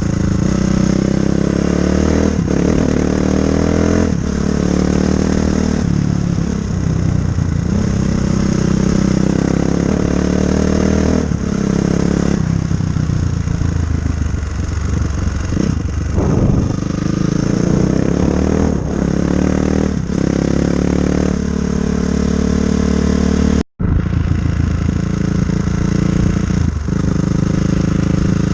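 2004 Honda CRF450R dirt bike's single-cylinder four-stroke engine running hard, its pitch repeatedly climbing and dropping with the throttle every few seconds. The sound cuts out for an instant about three-quarters of the way through.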